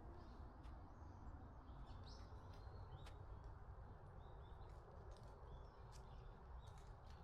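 Faint wild birds chirping, short scattered calls, over a low steady outdoor background noise.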